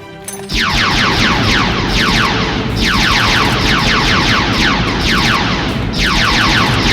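Loud action sound effects that start suddenly about half a second in: a dense rumble with repeated swoops of falling pitch, about every two to three seconds.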